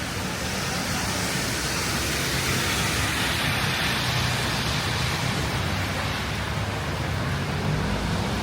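Heavy rain falling steadily on a city street: an even, unbroken hiss, with a low hum of road traffic beneath it.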